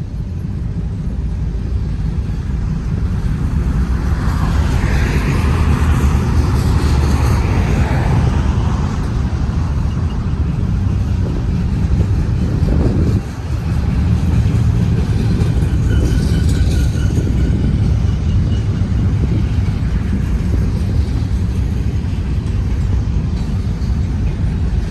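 BNSF intermodal freight train passing close by, a loud, steady low rumble of the train rolling along the track.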